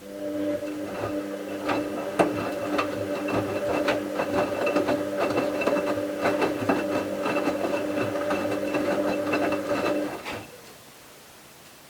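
Bauknecht WA 7778 W washing machine's motor turning the drum during the wash: a steady motor hum with a rapid stream of clicks and knocks, stopping after about ten seconds. The drum bearing was already starting to fail, not yet badly.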